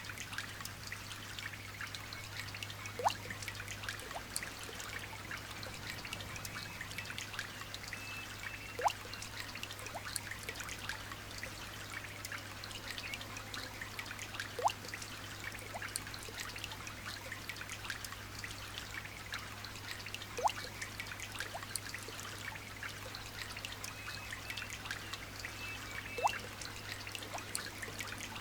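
Light rain falling: a steady patter and trickle of many small drops, with a louder single drip plinking about every six seconds. A low steady hum sits underneath.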